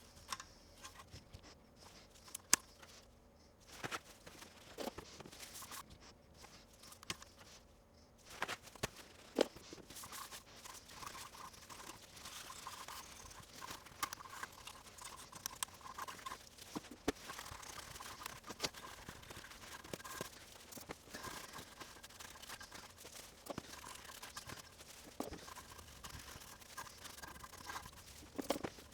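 Scratchy scrubbing and handling noises from cleaning a computer logic board, with scattered sharp clicks and taps throughout.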